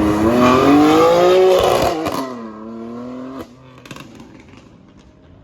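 A car engine revving hard as it accelerates, its pitch rising for about two seconds, then dropping suddenly as it shifts up and pulls on at lower pitch. It fades out after about three and a half seconds.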